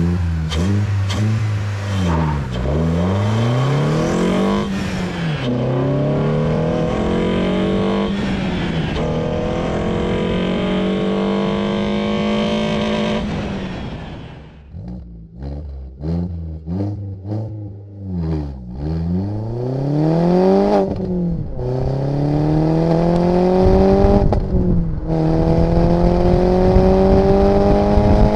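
Renault Sandero RS 2.0-litre four-cylinder engine, heard at its intake and exhaust, accelerating hard up through the gears with quick upshifts. About halfway in the driver lifts off and the remapped engine gives a string of pops on the overrun. It then pulls up through the gears again.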